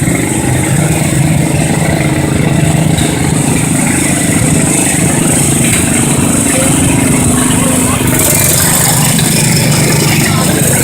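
Garden tractor engine running steadily, with no big rev changes.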